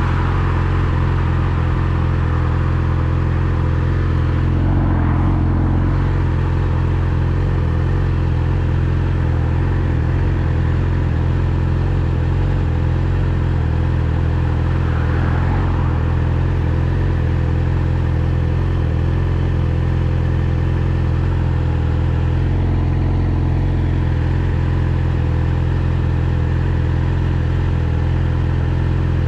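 Yamaha R6 sport bike's inline-four engine running steadily at one unchanging pitch. Two brief rushes of noise come about five and fifteen seconds in.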